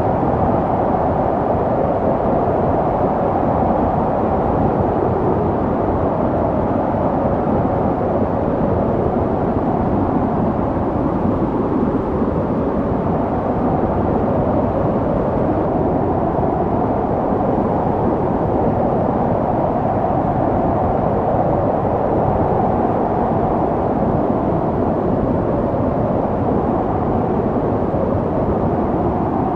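Snowstorm wind blowing as a steady, dense low rushing noise, with no gusts, breaks or separate events.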